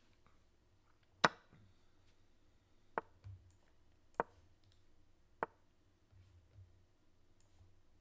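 Four sharp wooden-sounding clicks of an online chess game's move sound effects as moves are played and pieces traded, the first the loudest, each about a second to a second and a half apart.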